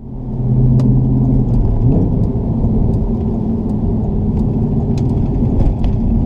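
Audi RS4 B7's 4.2-litre V8 running under way, its rear exhausts bypassed, a steady deep drone whose pitch rises about two seconds in and then holds steady.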